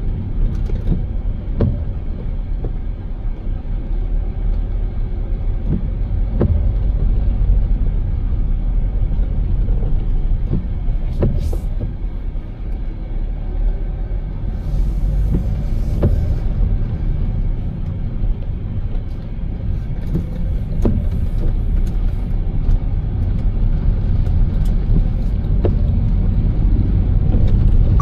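Car driving: a steady low rumble of road and engine noise, with scattered light knocks and two short stretches of hiss in the middle.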